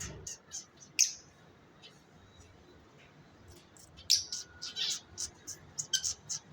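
Lovebirds chirping in short, sharp, high-pitched calls. There are a few at first with a loud one about a second in, then a lull, then a quick run of chirps from about four seconds on.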